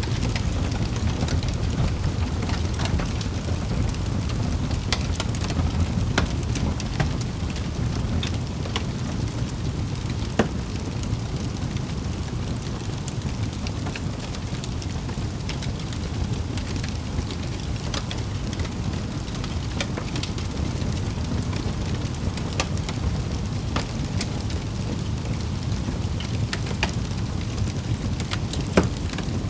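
Wood fire crackling in a fireplace: scattered sharp pops and snaps, a louder one about ten seconds in and another near the end, over a steady low rumble of the flames.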